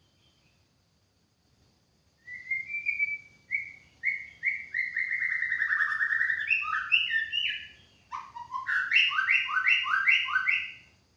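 White-rumped shama singing: after about two seconds of quiet, a run of varied whistled phrases, then from about eight seconds in a fast series of repeated two-note phrases, about two to three a second.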